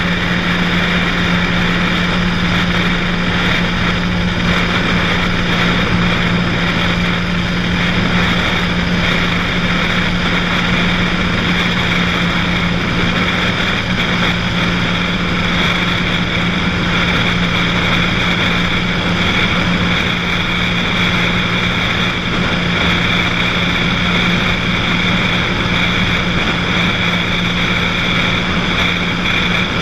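Cessna 182's six-cylinder piston engine and propeller running steadily in flight: a constant low hum with an even hiss of air noise over it.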